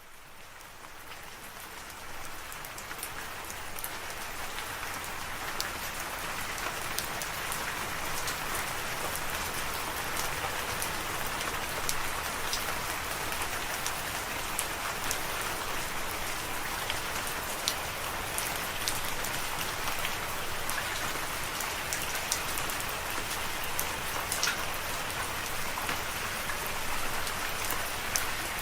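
Steady rain falling, an even hiss of rain with many scattered sharp drop ticks. It fades in from silence over the first few seconds, then holds steady.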